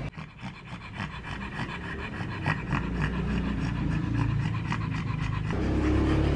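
Dog panting rapidly, several quick breaths a second.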